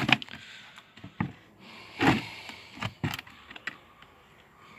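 Scattered light clicks and knocks of small objects being handled, with a short breathy noise about two seconds in.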